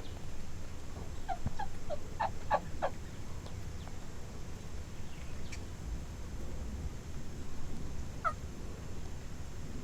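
Osceola wild turkey gobbling: a quick burst of short notes about a second in, and one more note near the end, over a steady low rumble of wind.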